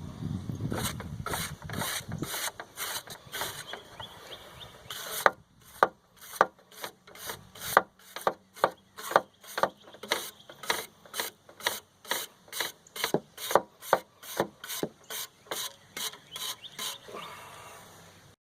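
Wire brush scrubbing the back coil of a window air conditioner, a coil clogged with dirt that stopped the unit cooling. Close, quick scrubbing at first, then strokes at about two a second from about five seconds in until near the end.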